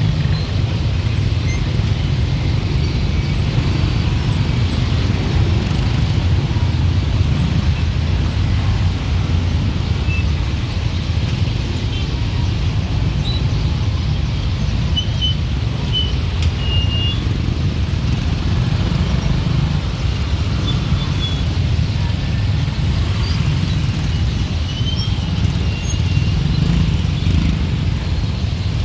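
Steady city traffic of motorbikes, cars and tuk-tuks: a continuous low rumble of engines and tyres, with a few brief high chirps near the middle and again near the end.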